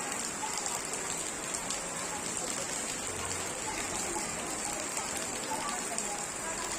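Steady rain falling, with scattered individual drops ticking sharply through the even hiss.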